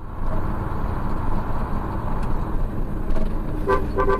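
Road traffic noise with a steady vehicle rumble. A car horn starts honking in short beeps near the end.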